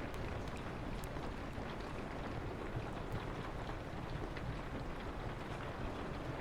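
Steady rain on a window over a low wind rumble, with a few sharp pops from a crackling wood fire, the clearest ones near the start and about a second in.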